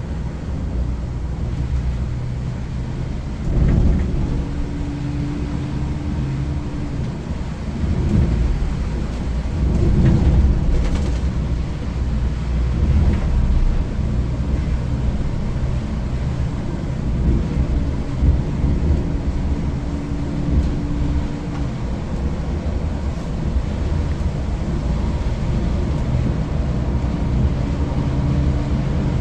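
Volvo B8R diesel engine of a Volvo 9600 coach running under heavy load on a steep ghat climb: a steady low drone, with deep rumbling thumps about four and ten seconds in.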